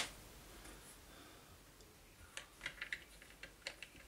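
Faint light clicks and taps of small parts being handled and fitted back into a motor assembly, a quick cluster of them between about two and four seconds in.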